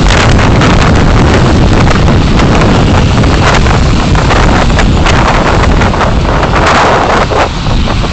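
Loud, steady rush of wind and road noise from a moving car, picked up by a dashcam, with scattered clicks. It eases near the end.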